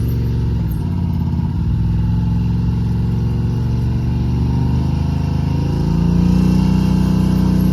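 Yamaha side-by-side's engine running at low revs while it climbs slowly up loading ramps in four-wheel drive. The pitch wavers about a second in, then the engine revs up and gets louder about six seconds in.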